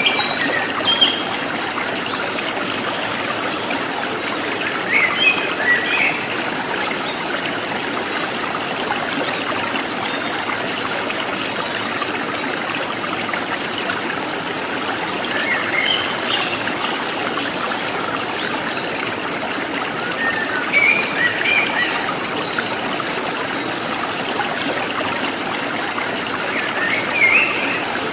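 Forest stream water trickling and babbling steadily, with short wild bird chirps breaking in about five times.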